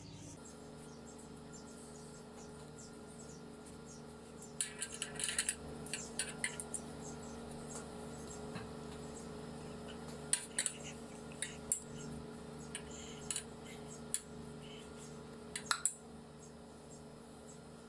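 Scattered light clicks and clinks of the pan and fingers as buttered shredded kunafa dough is spread evenly into it by hand, from about four seconds in to near the end, over a low steady hum.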